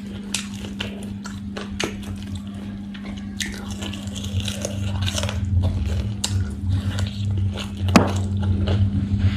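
Close-miked eating: fingers tearing meat off a crispy fried chicken drumstick, then biting and chewing, with many small clicks and crackles and a sharp click about 8 seconds in. A steady low hum runs underneath.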